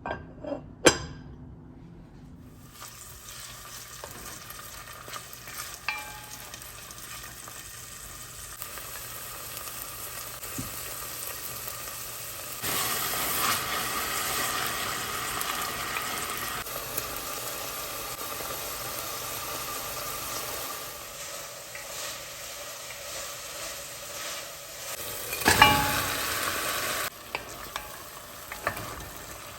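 Food sizzling in a frying pan while it is stirred, with a sharp knock about a second in and a loud utensil clatter near the end. The sizzling grows louder about thirteen seconds in.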